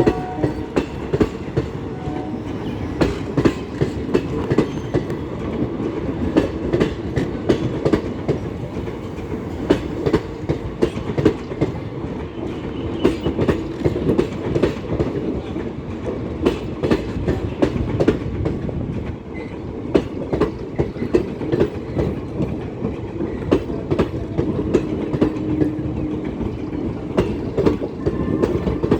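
Passenger train of ICF coaches rolling past on the track with a steady rumble, its wheels clicking continually over the rail joints in a clickety-clack.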